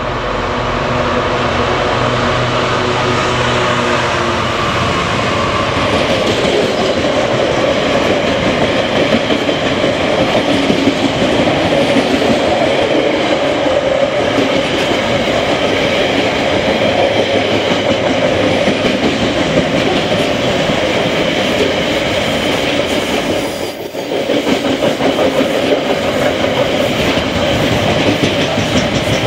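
Diesel freight train passing close by: the locomotive's engine runs with a steady note for the first few seconds, then a long line of wagons rolls past on the rails. The sound dips briefly once, about three-quarters of the way through.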